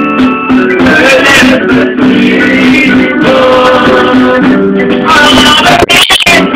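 Latin American band music, an instrumental passage between sung verses. The sound cuts out briefly several times near the end.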